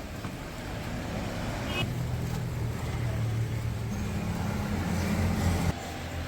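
A motor running with a steady low hum and a hiss, growing louder, then cutting off abruptly shortly before the end.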